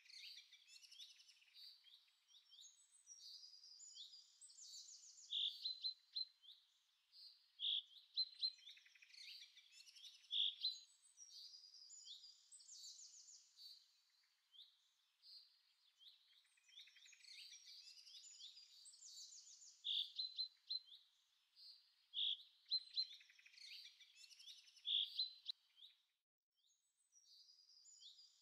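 Faint birdsong: a mix of high chirps and trills, with a few louder, clear whistled notes that recur in a repeating pattern.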